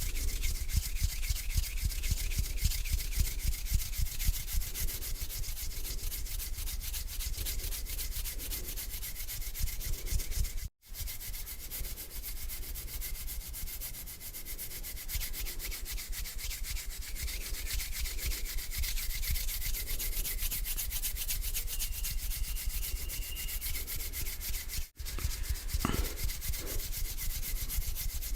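Hands rubbing together slowly, a steady dry friction sound that cuts out briefly twice, near 11 seconds and near 25 seconds.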